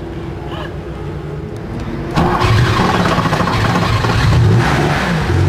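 1972 Porsche 911 Carrera RS's air-cooled 2.7-litre flat-six starting up: it fires with a sudden loud burst about two seconds in, then runs rough and loud with small swells of revs.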